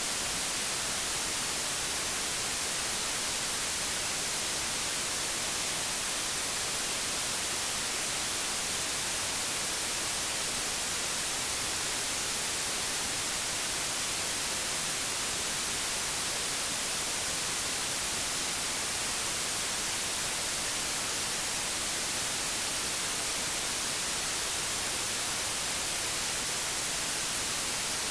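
Steady hiss of analogue television static, even and unchanging, strongest in the high end.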